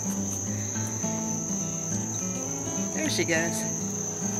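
Steady, high-pitched chirring of insects, most likely crickets, running without a break, over a low background hum whose pitch shifts every half second or so. About three seconds in there is a brief voice-like sound.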